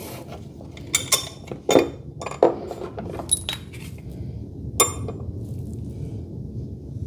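Metal hardware and tools clinking: a handful of sharp metallic knocks with a short ringing tail in the first five seconds, over a steady low rumble.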